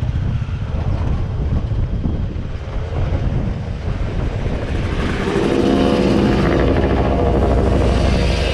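Low, steady rumble of a moving vehicle heard from aboard a tram car. About five seconds in, a louder engine note with a steady pitch comes in and holds.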